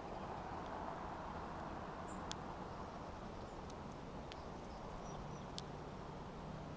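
Backyard ambience at a songbird feeder: a steady distant rumble with a few scattered sharp clicks and two brief, high, thin bird chirps.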